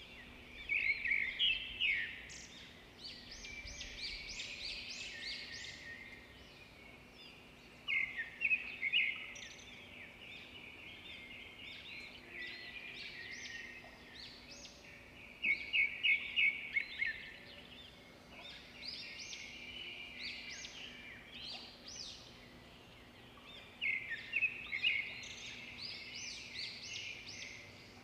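Birdsong: high-pitched chirping, with a loud burst of rapid chirps four times, about every seven to eight seconds.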